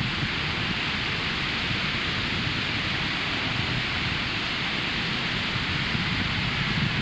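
Ocean surf breaking and washing on a sandy beach: a steady hiss over a low rumble, with no single wave standing out.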